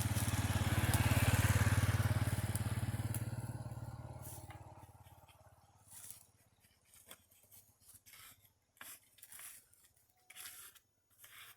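A motor vehicle engine passing by. It is loudest about one to two seconds in and fades away by about five seconds. Scattered short knocks and scrapes follow.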